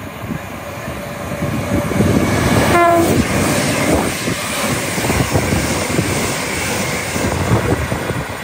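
Train passing at speed through a station, wheels and rails rumbling loudly, with a short horn note about three seconds in.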